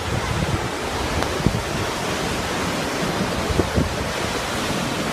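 Montmorency Falls waterfall: a steady, even rush of falling water, with a few short low buffets of wind on the microphone.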